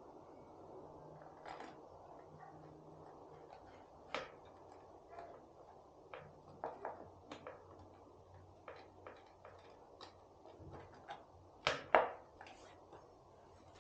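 Scattered small clicks and knocks of hand tools and metal parts being handled during motorcycle repair work, with two louder knocks close together near the end.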